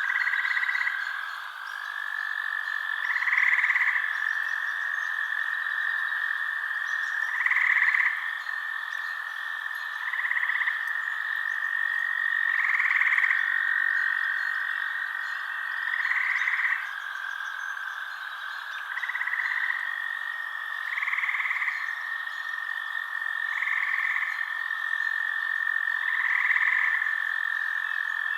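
Night chorus of frogs: a steady high trill, with a louder call breaking in about every two to three seconds.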